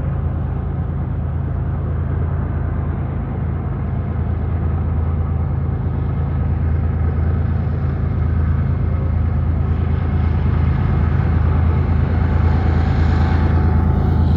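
Diesel freight locomotive engines running with a steady low rumble, growing gradually louder as the train approaches.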